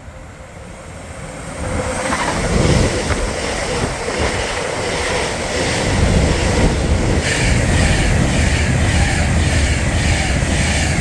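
Class 390 Pendolino electric train passing through at speed. A rush of wheel and air noise builds over the first two seconds and then holds, with a regular clatter of wheels over the rails.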